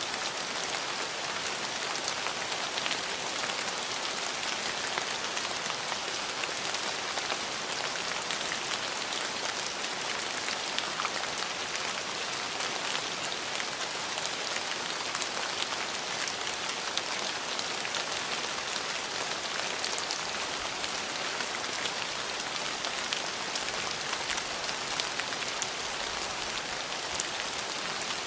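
Steady rain falling on a surface, an even hiss of many small drops ticking, with no change in strength.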